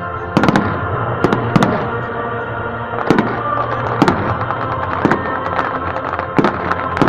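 Fireworks display: rapid, irregular sharp bangs of bursting shells, about a dozen in a few seconds, over music playing steadily underneath.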